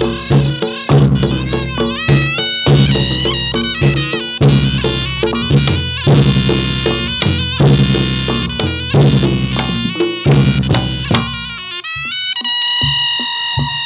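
Reog Ponorogo gamelan music: a slompret shawm plays a bending, reedy melody over steady drumming. About twelve seconds in, the drums drop away and the shawm holds one long note.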